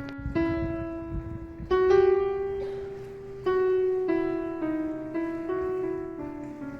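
Background music: a slow piano melody, one sustained note at a time, each struck note ringing on and fading.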